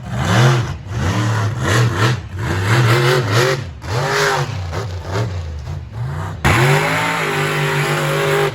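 Monster truck engine revved in repeated blips, its pitch swooping up and down about once or twice a second. About two-thirds of the way through it jumps up and holds a steady high rev.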